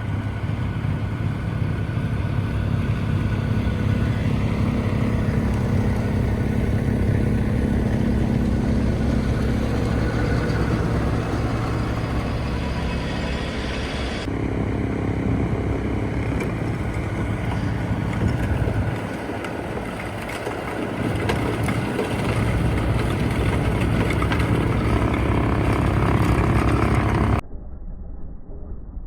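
Vehicle-driven snowblower at work: a steady engine drone with blower noise. The sound changes abruptly about halfway through, and turns quieter and muffled near the end.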